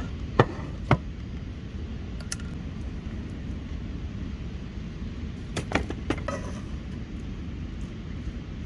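Sharp clicks and knocks of cooking utensils and cookware, two of them just under a second in and a quick cluster around six seconds, over a steady low outdoor rumble.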